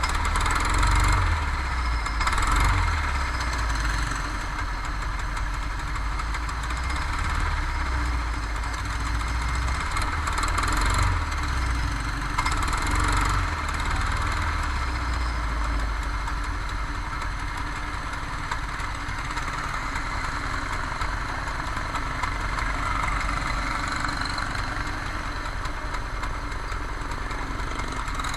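Kart engine running steadily, with a few brief swells in level in the first half.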